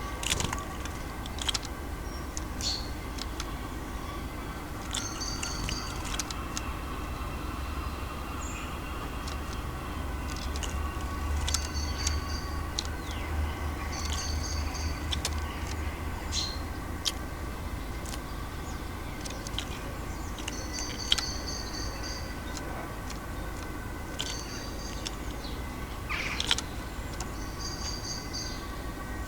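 A small songbird repeats a short, high call every few seconds over the steady low rumble of city traffic, with scattered sharp clicks.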